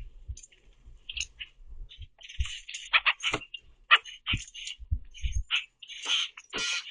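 Common grackles giving rapid, harsh chack calls while squabbling at a feeder, the calls crowding together and growing louder and longer near the end. Several low thumps come in between the calls.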